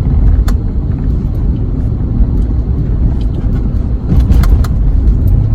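Ford Escape cabin road and engine noise while driving: a steady low rumble, with a few light clicks.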